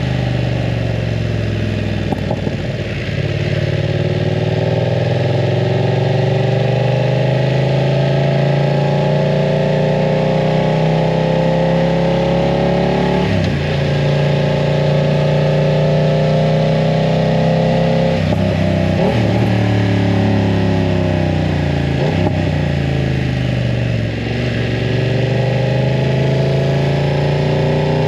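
BMW F900 R parallel-twin engine with a full aftermarket exhaust, under way: the revs climb slowly for about ten seconds, drop sharply at a gear change about 13 s in, then rise again, with several more quick shifts and rev changes in the second half.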